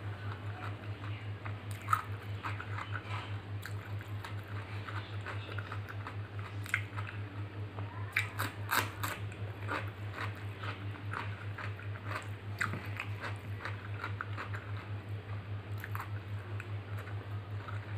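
Close-up chewing and crunching of a raw cucumber slice, with wet mouth clicks, over a steady low hum that pulses rapidly.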